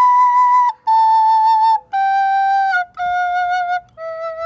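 Soprano recorder playing a slow descending run of five held notes, B, A, G, F, E, each about a second long with short breaks between, the last and lowest note, E, held longest.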